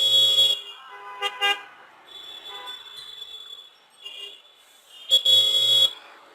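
Vehicle horns honking in street traffic: a loud honk at the start, two short toots, fainter beeps, then another loud honk of about a second near the end.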